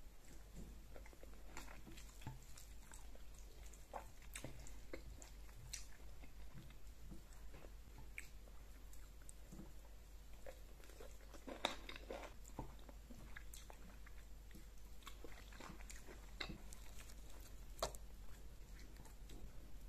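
A person chewing a mouthful of fufu and egusi soup with goat meat, close to the microphone: soft chewing with many small mouth clicks. The sounds come thicker and louder about twelve seconds in, with one sharp click near the end.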